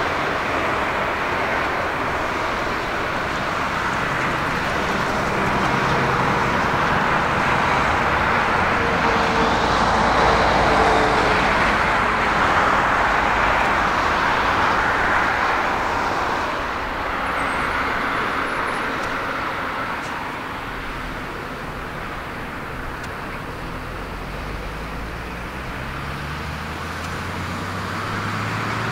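Jet airliner landing: engine noise swells to its loudest about ten seconds in and then fades away.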